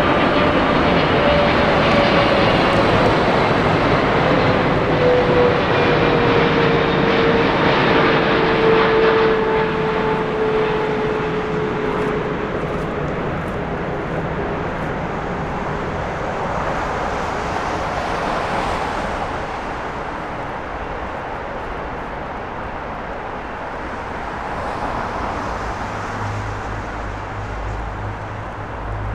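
Jet airliner passing close by. It starts abruptly at full loudness, and its engine whine slides down in pitch over the first ten seconds or so. The noise then eases to a steadier, more distant rumble.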